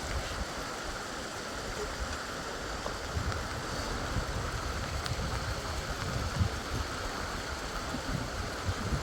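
Steady rushing of heavy rain, with irregular low rumbles of wind buffeting the microphone from about three seconds in.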